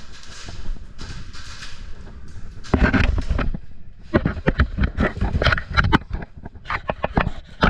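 Airsoft guns firing on full auto in rapid bursts of sharp cracks, with BBs smacking around, starting a few seconds in after a stretch of rustling movement.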